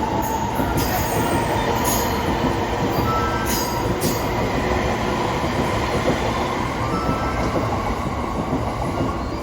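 285 series sleeper train rolling through the station as it departs, a steady rumble of wheels on rail. A faint high wheel squeal runs through it, and a few light clicks sound in the first few seconds.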